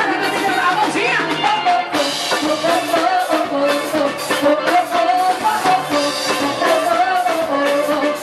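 Frevo music: a melody line carried over fast, steady drumming.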